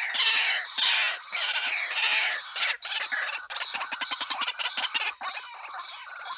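White-breasted waterhens calling: a dense run of quickly repeated calls that eases slightly near the end.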